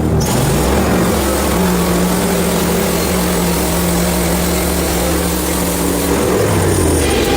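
Portable band sawmill running under load, its engine droning steadily while the band blade cuts through a log. The cutting hiss comes in just after the start and dies away near the end.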